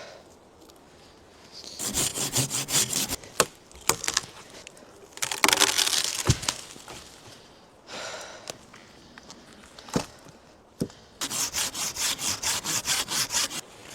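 Hand saw cutting wood in quick, even back-and-forth strokes, in two runs with a pause between. Between the runs there are a longer rough scrape and a few sharp knocks.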